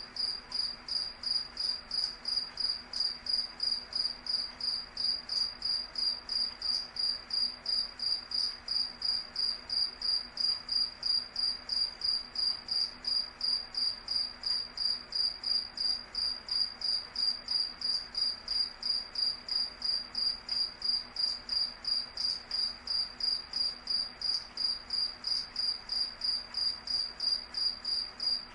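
Crickets chirping: a high-pitched chirp repeating steadily, about three times a second.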